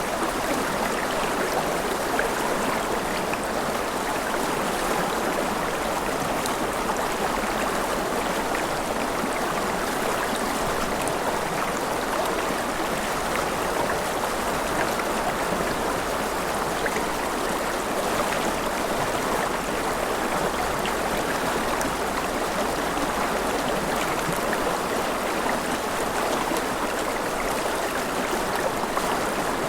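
Mountain river flowing over rapids: a steady, even rush of water.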